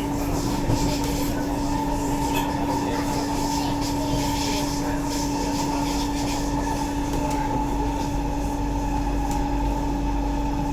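Inside an SMRT Kawasaki-Sifang C151A metro train cruising between stations: a steady rumble of the running car with a constant two-tone hum that holds its pitch throughout.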